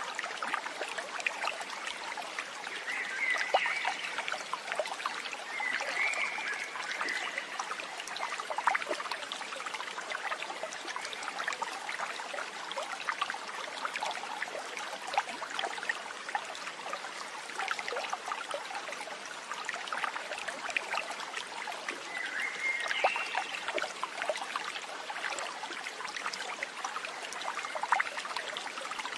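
Steady trickling of a small stream over stones, with many small splashing ticks and a few brief chirps about three, six and twenty-three seconds in.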